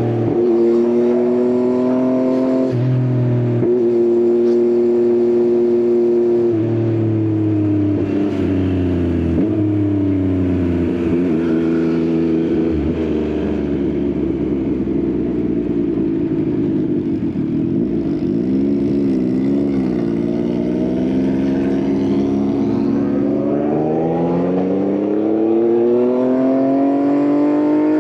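Yamaha XSR900's three-cylinder engine through an Akrapovič exhaust, heard from the rider's seat. It holds steady revs, then slows with falling pitch and a wavering burble near the middle, and pulls up steadily through the revs again in the last few seconds.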